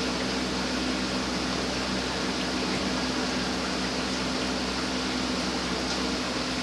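A steady mechanical hum with a constant hiss, unchanging throughout, with no distinct events.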